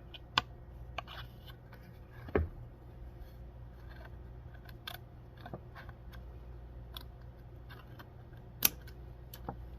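Small scissors snipping through water slide decal paper: a scattering of sharp, irregular snips and clicks, with a louder knock about two and a half seconds in.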